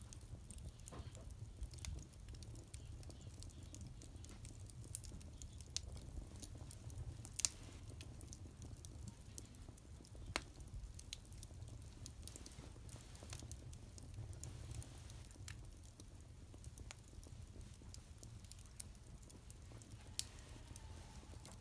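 Wood fire crackling: scattered sharp pops and snaps at irregular intervals over a low steady rumble, a couple of louder pops partway through.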